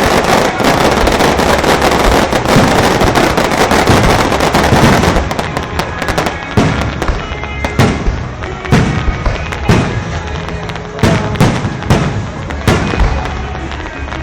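Aerial fireworks bursting overhead at close range. For about the first five seconds there is a dense, continuous barrage of bangs and crackling. After that come separate loud booms, roughly one a second, each echoing away.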